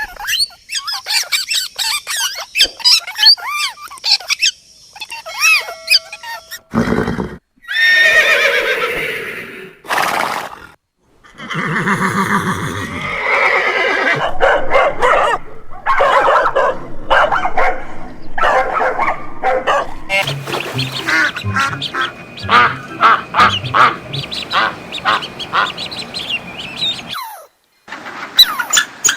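A string of short animal-call clips, mostly birds and waterfowl calling, with quacking and honking among them. The clips change every few seconds, with a few sharp knocks between them.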